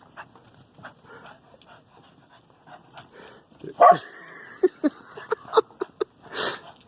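A dog panting in quick, repeated breaths as it plows through deep snow. About four seconds in there is a louder yelp, followed by a few short, sharp yelps.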